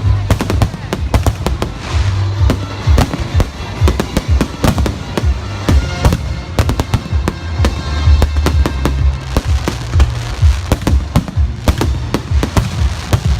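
Fireworks salute bursting in rapid succession, many sharp bangs a second, over loud music with a heavy steady bass.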